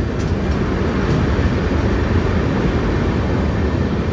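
Moving passenger train heard from aboard: a steady, loud running noise of the coach and wheels on the track, heaviest in the low range.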